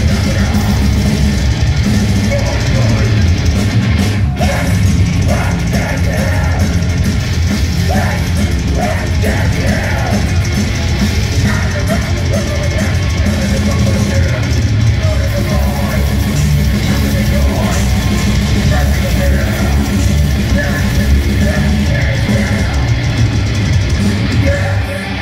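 Live heavy metal band playing loud, with distorted guitars, pounding drums and shouted vocals.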